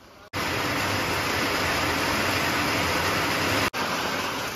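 Heavy monsoon rain pouring down in a steady, dense hiss. It cuts in abruptly just after the start and drops out for an instant a little before the end.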